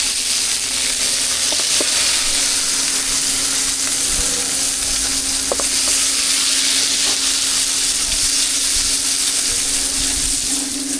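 Meat-filled cakes frying in a pan: a steady sizzle, with a few faint clicks and a steady low hum underneath.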